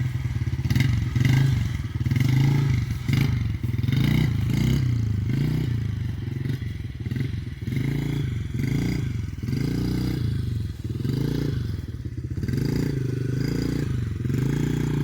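Small dirt bike engine running under a young rider, its revs rising and falling over and over, roughly once a second.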